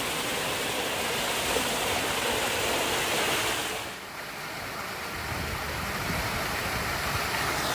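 Steady rush of river water flowing over rapids. The sound dips briefly about halfway through, then comes back with a heavier low rumble.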